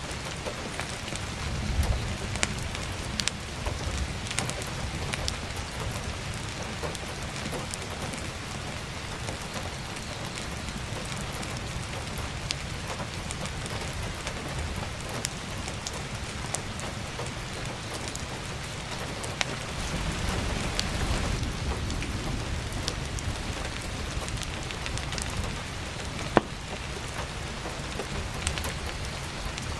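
Heavy rain falling steadily, with sharp crackles and pops of burning firewood scattered through it; one loud pop comes about 26 seconds in, and a low rumble swells for a couple of seconds around 20 seconds in.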